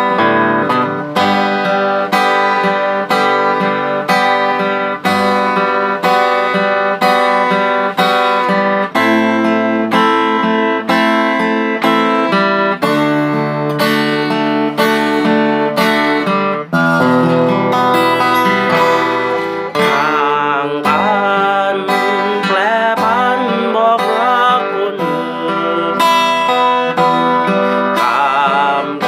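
Music: an acoustic guitar strummed in a steady rhythm, playing a song with a wavering melody line over the chords in the second half.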